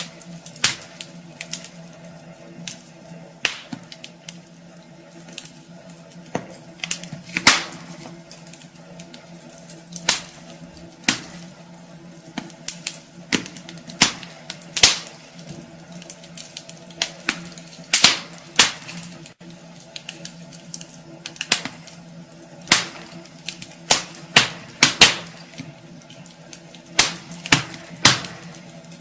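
Wood fire crackling in a fireplace: irregular sharp pops and snaps, a few louder ones scattered throughout, over a steady low hum.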